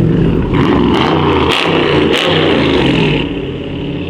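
A car engine revved hard over and over, its pitch climbing and falling, with a few sharp pops along the way; it eases off about three seconds in.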